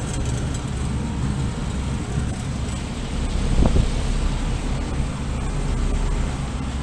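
Carrier Comfort heat pump outdoor unit running just after start-up: a steady whoosh from the condenser fan over a low hum from the scroll compressor. There is a brief thump about three and a half seconds in.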